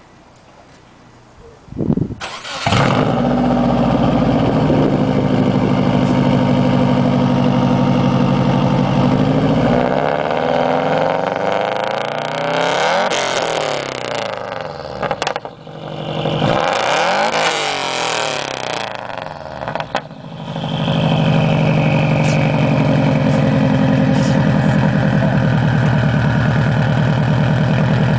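2004 Subaru Forester XT's turbocharged 2.5-litre flat-four, exhausting through an up-pipe, catted downpipe, stock resonator and straight pipe, starts about two seconds in and idles steadily. In the middle it is revved up and down in two spells, then settles back to a steady idle.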